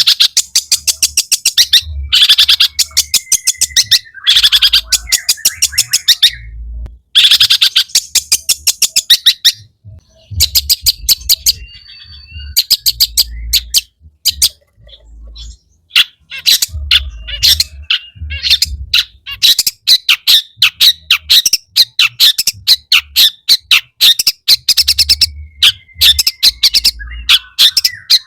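Long-tailed shrike (cendet) singing a loud, fast chattering song in bouts of rapid sharp notes with short pauses between them, now and then a thin drawn-out whistle. The song is packed with mimicked calls.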